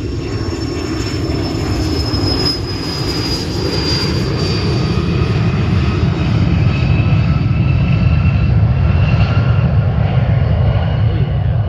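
Learjet business jet taking off, its jet engines at takeoff power: a heavy rumble that grows louder, with high whining tones that slowly fall in pitch.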